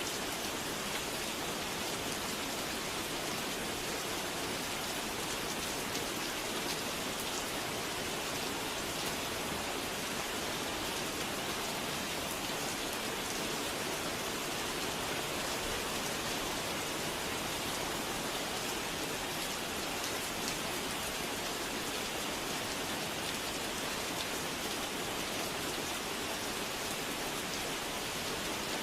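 Steady rain falling, a constant even hiss with scattered individual drops.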